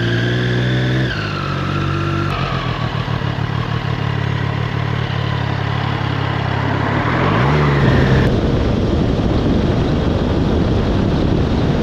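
Motorcycle engine running while riding, its note dropping about a second in, with wind rushing over the microphone.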